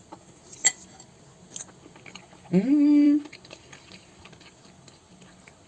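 A woman eating stuffed pancakes: a sharp click about a second in, soft chewing, and a drawn-out "mmm" of approval that rises and holds its pitch in the middle.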